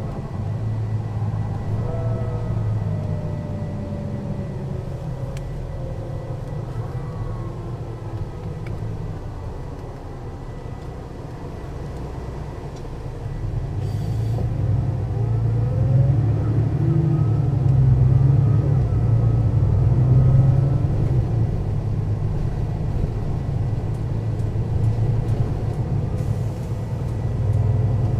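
Engine and ZF automatic gearbox of a 2001 Mercedes-Benz O 530 Citaro city bus running on the road. It eases off about ten seconds in, then pulls harder and louder from about thirteen seconds on, with faint whines gliding in pitch above the engine's rumble.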